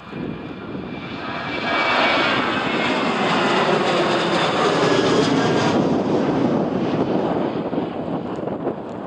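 Boeing 737-800 jet engines at takeoff power as the airliner passes, with CFM56 turbofans. The noise builds to a loud peak with faint falling tones, the high hiss drops away suddenly a few seconds in, and the rumble slowly fades.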